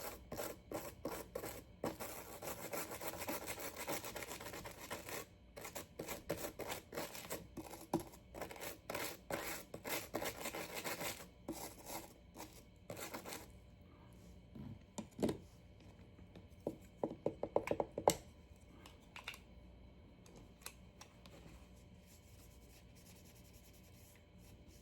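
A small brush scrubbing a knife sharpener's parts clean, a dense run of scratching strokes for about thirteen seconds. A few light clicks and knocks follow.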